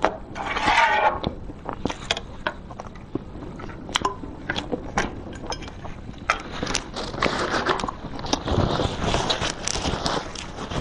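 Close-miked eating sounds of a mouthful of cream cake with cookie crumbs: wet chewing and mouth clicks, with a metal spoon scraping the paper tray just after the start.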